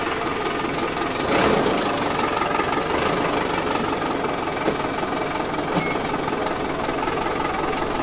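A steady, rattling engine-like running sound.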